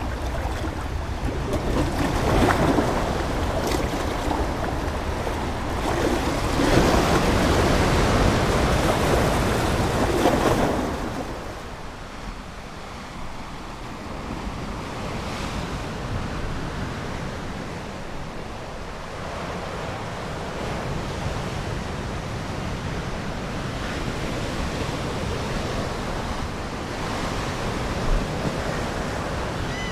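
Ocean waves washing onto the shore: a louder surge of surf about two seconds in and a longer, louder one from about six to eleven seconds, then a softer, steady wash.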